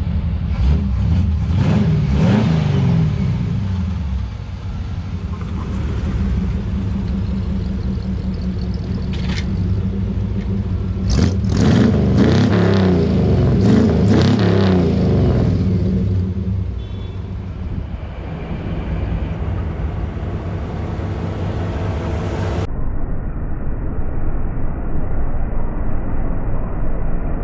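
Chevrolet 350 V8 in a 1957 Chevrolet 3100 pickup running, revved up and back down twice, with scattered sharp clicks and knocks. The sound turns duller and muffled about 23 seconds in.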